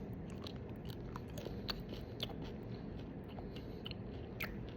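A person chewing a Bento squid seafood snack, a chewy, crunchy seasoned squid wafer: faint, irregular crunches and mouth clicks.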